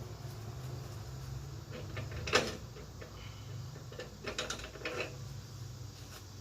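Objects being handled: a sharp knock about two seconds in and a cluster of smaller clicks and knocks a little later, over a low steady hum.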